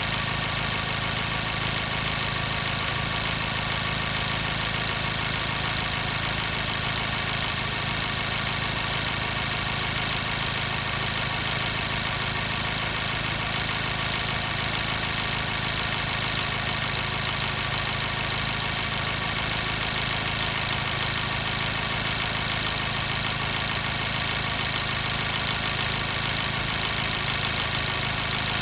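2014 Mazda 3's 2.0-litre four-cylinder engine idling steadily as it warms up, with a miss from a number 2 cylinder misfire.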